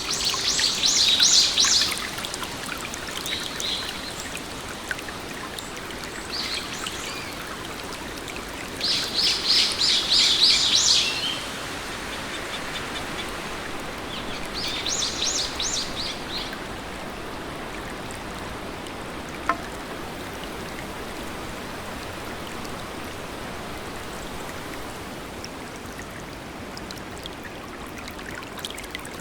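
Songbird singing short trilled phrases of rapid repeated high notes, four times in the first half, over a steady hiss of falling water. The bird phrases are the loudest sounds.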